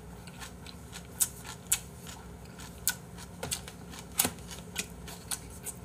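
Close-miked chewing of a full mouthful of food: irregular wet mouth clicks and smacks, about a dozen of them, with short gaps between.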